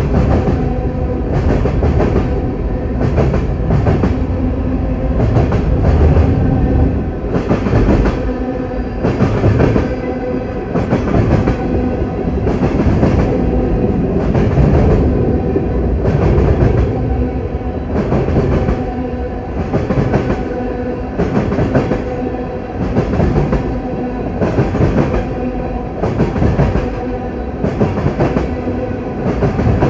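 Freight train cars rolling past at close range, their wheels clacking over rail joints in a steady rhythm of about one clack a second, over a continuous rumble.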